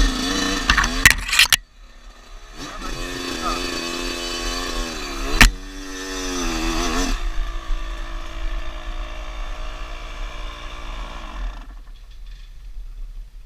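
Dirt bike engine revving up and down, its pitch rising and falling, then dying away about twelve seconds in. Loud knocks and rumble on the microphone fill the first second and a half.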